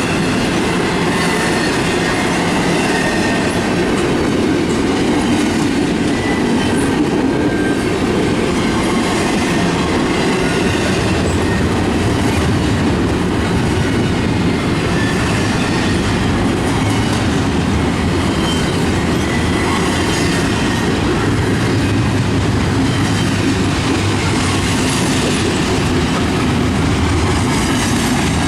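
Intermodal container freight train rolling steadily past at speed, a continuous loud rumble of wheels on rail with clickety-clack over the joints and a thin, faint wheel squeal.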